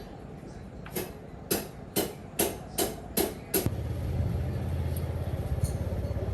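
Seven sharp hammer blows, about two a second, then a low steady machine rumble starts abruptly and runs on.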